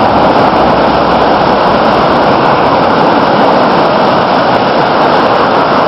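Steady rush of churning floodwater on the Moira River, a loud continuous noise.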